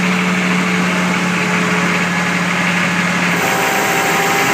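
1986 Chevy 6.2 L diesel running steadily to drive a 10 kW PTO generator. About three and a half seconds in, a small electric air compressor plugged into the generator starts, adding a higher hum as the engine takes the load.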